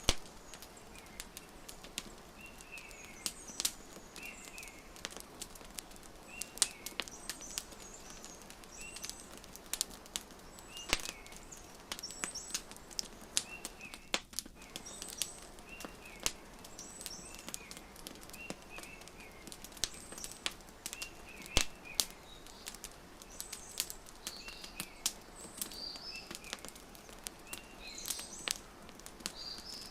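Wood fire crackling with sharp, irregular pops, the loudest sounds here, over small birds chirping in short repeated calls every second or two.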